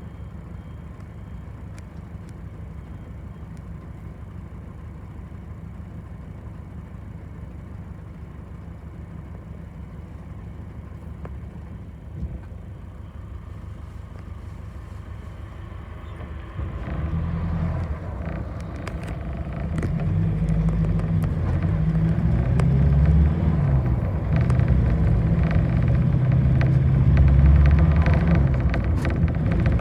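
Bus engine heard from inside the bus, running low and steady, then a little over halfway through it grows much louder as the bus pulls away and accelerates, its note stepping up and down.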